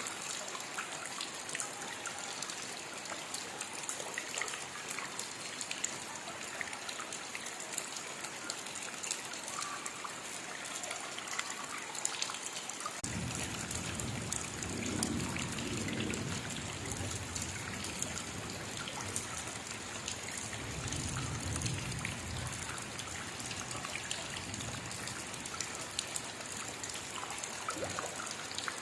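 Steady rain, a dense patter of drops with trickling water. A low rumble comes in about halfway and swells twice.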